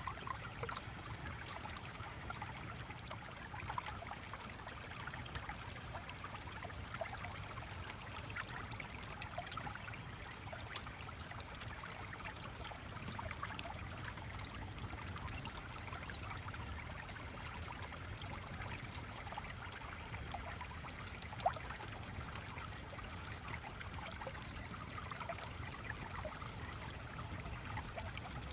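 Gently flowing stream running steadily, with small scattered ticks and one sharp click about three-quarters of the way through.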